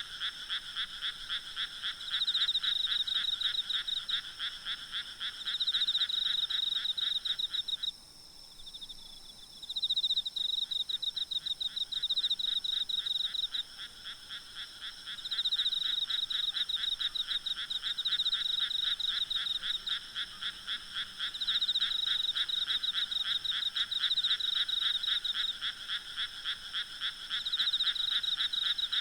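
Night chorus of many frogs calling together in rapid, pulsed croaks that swell and fade in waves. The lower-pitched calls drop out for about two seconds some eight seconds in, then resume.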